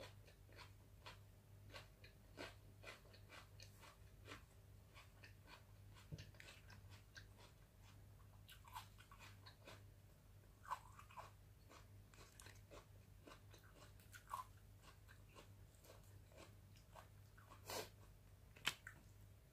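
Faint, close-miked mouth sounds of a person eating braised catfish with her fingers: soft, wet chewing and lip-smacking clicks scattered throughout, with a few louder smacks in the second half. A faint steady low hum sits underneath.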